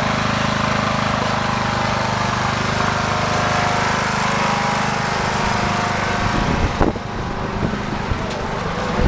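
Engine of a trackless ride-on train running steadily, a low even hum. About seven seconds in it drops a little and a few knocks come through.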